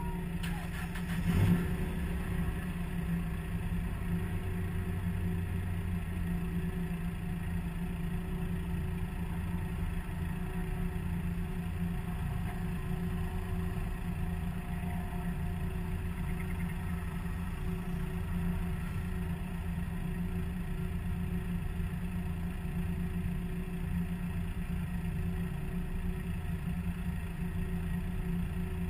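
Spec Miata race car's four-cylinder engine idling steadily while stationary, with one brief knock about a second and a half in.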